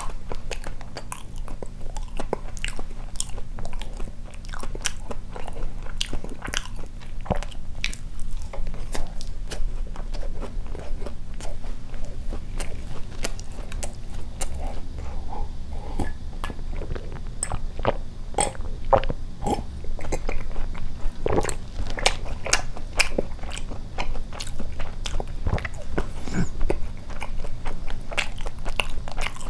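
Close-miked chewing and wet mouth sounds of a man eating a soft glazed doughnut, many small clicks and smacks, with a sip of water from a glass mug about midway. A steady low hum runs underneath.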